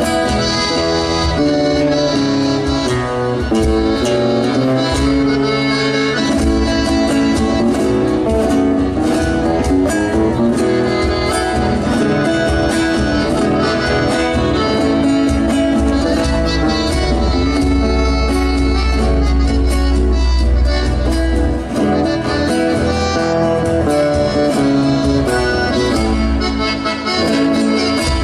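Instrumental Argentine folk music led by accordion with guitar accompaniment.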